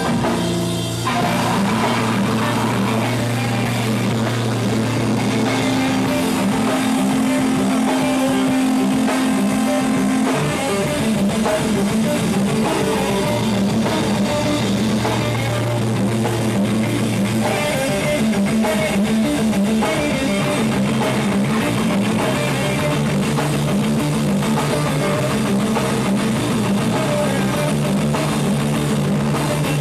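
Live rock band playing an instrumental passage: electric guitar with held low notes and a drum kit keeping a steady beat.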